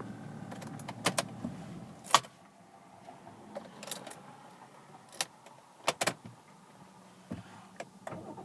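A series of sharp, separate clicks and knocks, about nine, scattered at uneven intervals inside a car, over a faint low hum that fades after about two seconds.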